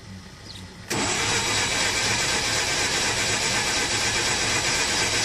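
Mazda RX-8's twin-rotor Renesis rotary engine cranked over by its starter, a steady loud cranking that starts suddenly about a second in and does not catch. The fuel pump fuse is out, to clear what the owner reckons is a flooded engine.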